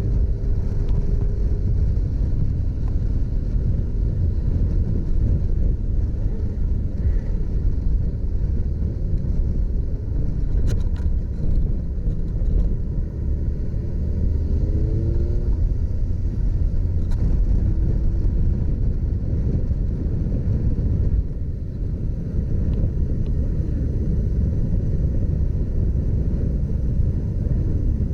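Motorcycle running under way, with a steady low rumble of engine, road and wind noise. A brief rising note about fourteen seconds in.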